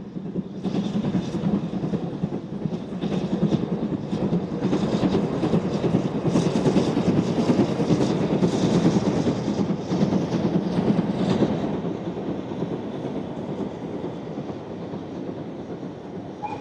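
Steam-hauled train passing on the line: wheels clicking over the rail joints over a steady rolling rumble. It swells about half a second in, is loudest midway and fades gradually toward the end as the train draws away.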